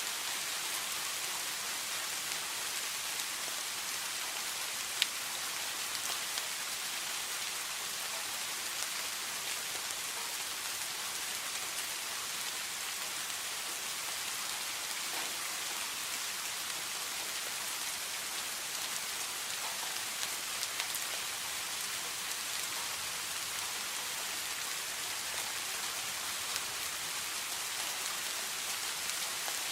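Steady rain falling, an even hiss with scattered sharper drop ticks; one louder tick about five seconds in.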